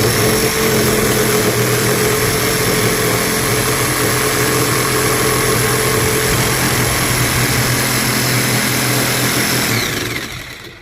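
Ryobi corded jigsaw running steadily as its carbide blade cuts through composite decking, then winding down and stopping near the end.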